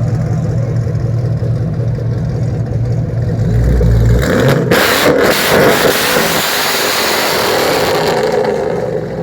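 Chevrolet Camaro ZL1's supercharged V8 idling with a loamy, steady note, then revved hard about four seconds in and held high for several seconds before dropping back to idle. A very loud rev that, by a bystander's account, shook the whole ground.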